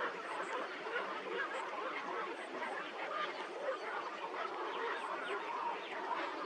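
A flock of birds calling all at once, a dense, unbroken chatter of many overlapping calls.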